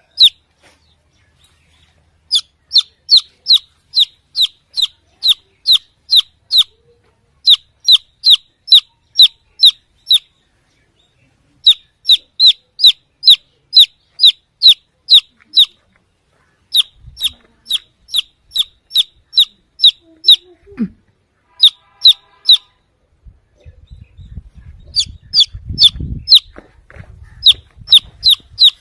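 Baby chicken chick peeping loudly, high-pitched chirps two to three a second in runs broken by short pauses, as it calls for the mother hen. A low rumbling noise comes in under the peeps near the end.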